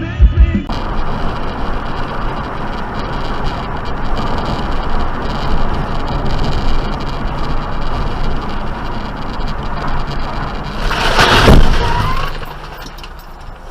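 Steady road noise of a car driving, as recorded by a dashcam. About eleven seconds in, a loud burst of noise builds and peaks, then the sound drops away. A beat-driven music track cuts off just at the start.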